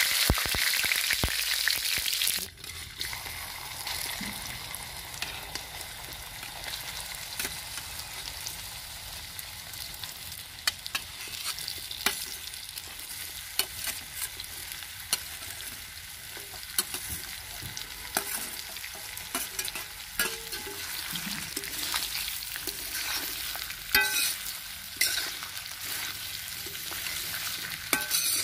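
Curry leaves spluttering loudly in hot mustard oil with tempering seeds in an iron kadhai, dropping sharply to a softer steady sizzle about two and a half seconds in. Sliced taro root then fries in the pan, with frequent clicks and scrapes of a steel spoon stirring against the iron, busiest near the end.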